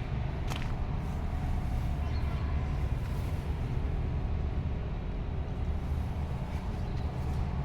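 Steady low rumble of a running vehicle engine, with a short click about half a second in.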